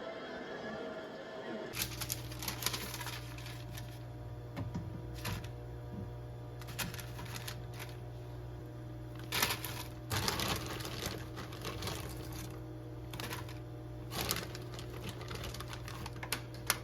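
Background music that stops about two seconds in. Then a steady low hum with irregular sharp clicks and clatters over it.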